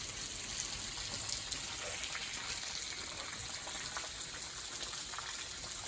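Water dripping and trickling inside a cave: a steady trickle with scattered single drips.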